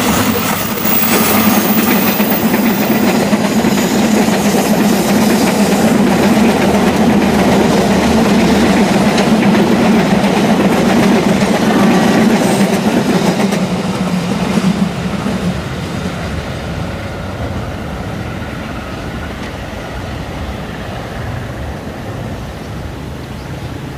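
A passenger train hauled by a CC201 diesel-electric locomotive passing close: the locomotive goes by at the start, then the carriages' wheels clatter over the rails and station switches. About fifteen seconds in the sound drops off as the train runs away.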